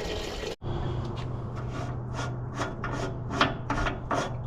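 Rhythmic hand scrubbing or scraping strokes, about three to four a second, cleaning up a metal fuel-tank fitting, over a steady low hum.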